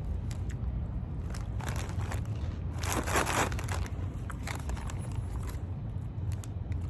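Street corn Cheetos being crunched and chewed, with many short crisp crunches and a louder rustling patch about three seconds in.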